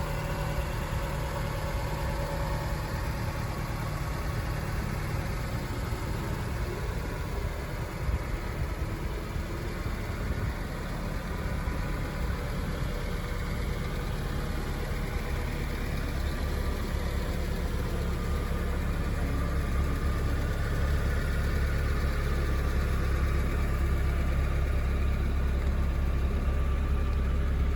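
The 1.8-litre four-cylinder engine of a 2000 Mazda MX-5 Miata, idling steadily. Its low rumble grows louder through the second half.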